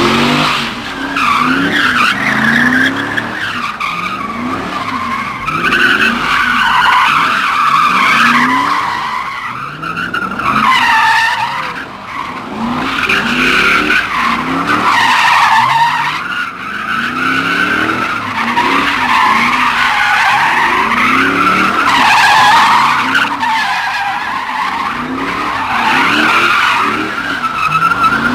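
Tyres squealing without a break while a Dodge Hellcat's supercharged V8 is revved up again and again, about once every second or two: the car doing burnouts and drifts.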